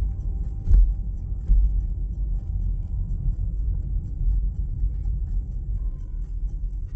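Low, uneven rumble inside a parked car, with two brief thumps in the first couple of seconds.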